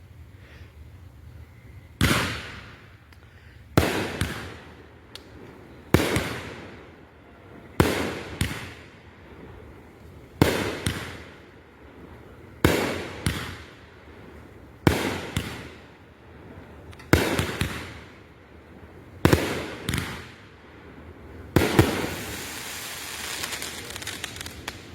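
Consumer 1.4G aerial fireworks going off: sharp reports about every two seconds, many coming as pairs about half a second apart, then a few seconds of continuous crackling hiss near the end.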